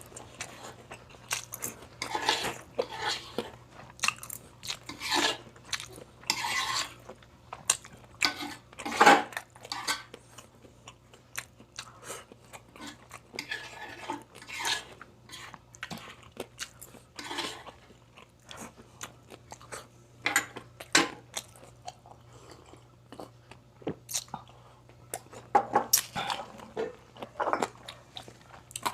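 Close-up crunching, biting and chewing of crispy deep-fried pork skin, in irregular bursts of crunches with quieter chewing between them.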